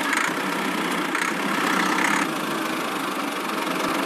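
Miniature DIY tractor's engine running steadily at idle, a light, even mechanical sound with little bass.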